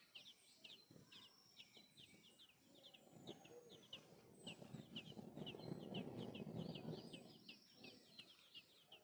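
Sparrow nestlings begging: rapid, high, repeated chirps, several a second, all the way through. A low rumbling noise builds about three seconds in and fades near the end.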